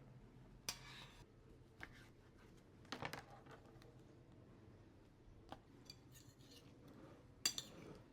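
Near silence with a low steady hum, broken by about six faint, sharp clicks and clinks of small hard objects, the loudest near the end.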